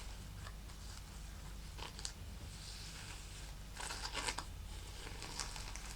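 Fingers scratching and handling a snakeskin purse: irregular dry crackling scratches, with a louder cluster about four seconds in.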